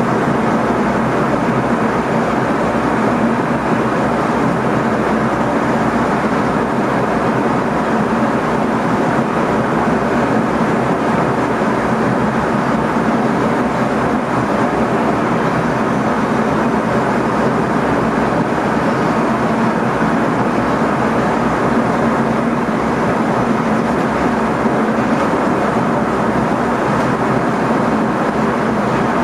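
NS ICM electric multiple unit running steadily on the rails, heard from inside the driver's cab: an even running noise with a steady low hum.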